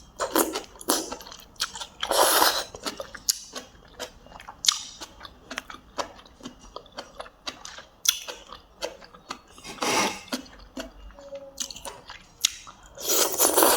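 Close-up eating sounds: a person chewing with many wet clicks and lip smacks, with a few longer slurps of stew broth about two seconds in, around ten seconds in, and near the end.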